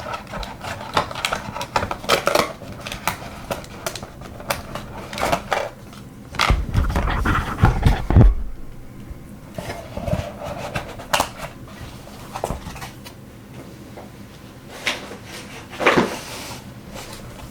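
Small plastic gel-polish products and packaging being handled on a table: scattered clicks, taps and light clatter. A heavier, lower knocking and rubbing comes about seven to eight seconds in.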